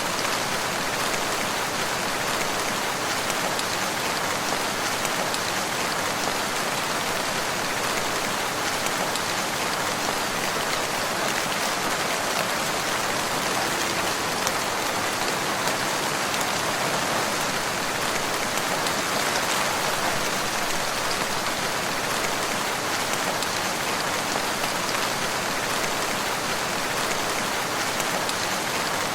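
Steady rain falling, a dense even patter of drops on a surface with no pauses.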